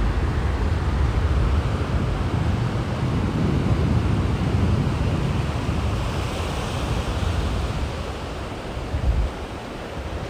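Sea surf washing onto a sandy beach, with wind buffeting the microphone as a low rumble that eases near the end. A brighter wash of surf swells about two-thirds of the way through.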